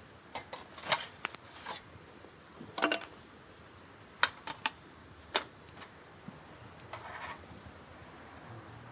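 Scattered light clinks and knocks of objects being handled, loudest about a second in and again near three seconds, with a short rustle near the end.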